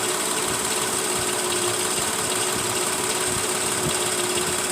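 Mercedes ML350's V6 idling steadily with a misfire on cylinder 1, where one of its two spark plugs gets no spark from a failed ignition coil.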